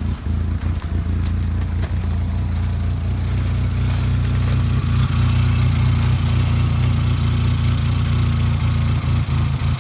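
2002 Volkswagen Jetta's 2.0 four-cylinder petrol engine idling steadily while warming up after a cold start, running smoothly and a little louder from about four seconds in.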